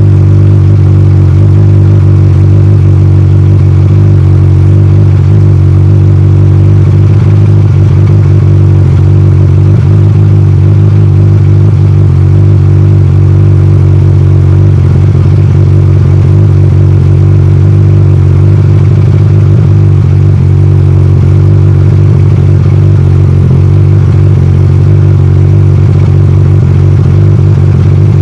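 Yamaha Aerox 155 scooter's single-cylinder engine running through its stock exhaust at a steady, unchanging speed with a loud, low drone and no revving. The audio is edited to make it sound like a big bike.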